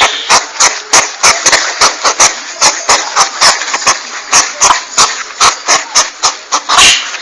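Porcupine calling in a fast, irregular run of short sharp huffs, about three a second, with a hiss between them.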